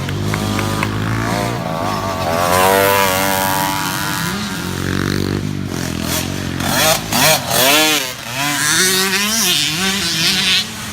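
Several small youth dirt bike engines revving, their pitch climbing and falling again and again as the riders work the throttle, with short sharp rises and drops from about seven seconds in.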